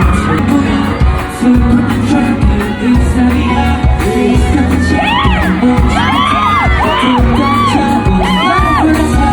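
Live K-pop played loud over a concert hall's sound system: a heavy, steady bass beat with singing over it and whoops from the crowd.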